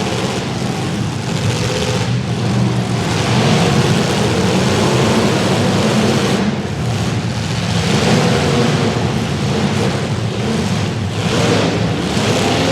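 Several demolition derby cars' engines running and revving loudly together. The pitch of the engines shifts up and down as the cars accelerate and ease off.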